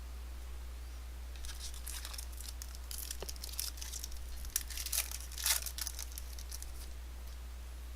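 A foil trading-card pack wrapper being torn open and crinkled. It comes as a string of crackles from about a second and a half in until about six seconds, loudest near the end of that stretch.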